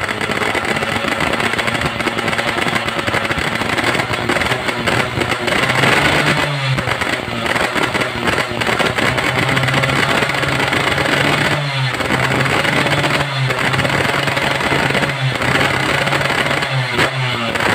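A newly fitted engine running and being revved in repeated throttle blips. The pitch swings up and falls back several times over a steady running tone.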